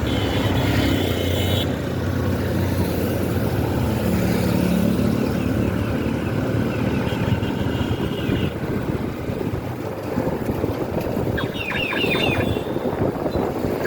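Motorcycle on the move with steady engine and traffic noise. A quick run of short, high, falling chirps comes near the end.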